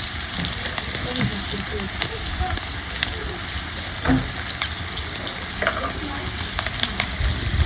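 Potato pieces frying in hot oil in a pan, a steady sizzle, with a few light clicks along the way.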